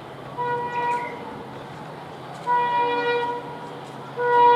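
Horn of a WDP-4D diesel locomotive sounding three blasts of about a second each, the third the loudest, over the low rumble of the passing train.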